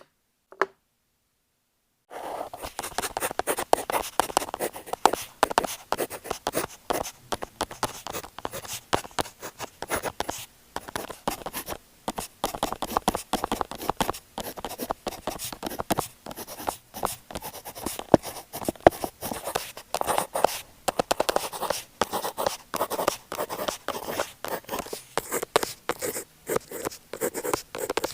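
A pen writing on paper: after a single sharp click early on, dense scratching strokes with many small taps start about two seconds in and go on without a break.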